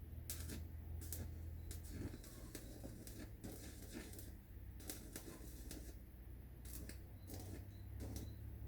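Scattered light clicks and taps, one or two a second, over a low steady hum.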